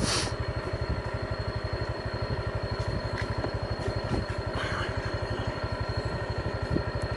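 Small motorbike engine running steadily with an even, fast low putter.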